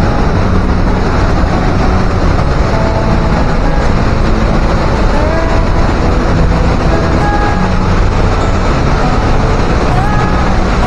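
Glacier-fed waterfall thundering through a rock gorge inside a mountain: a loud, steady rush of falling water.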